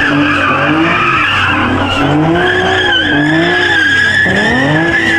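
Muscle car spinning its tyres: a sustained high-pitched tyre squeal while the engine revs up and down repeatedly, about once a second, loud throughout.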